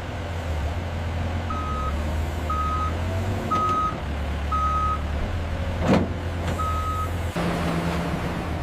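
Heavy truck engine running low while its backup alarm beeps about once a second, with a sharp clank about six seconds in. The engine note shifts near the end.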